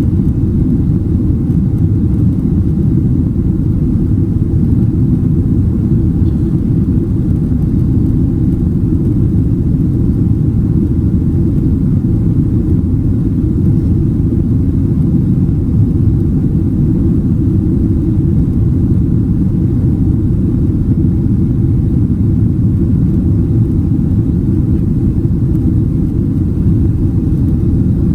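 Steady low rumble of cabin noise inside a Boeing 767-300ER: engine and airflow noise heard from an economy seat, holding at one level throughout.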